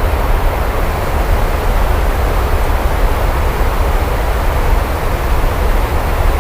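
Steady heavy rain: a dense, even hiss with a constant deep rumble underneath and no separate claps.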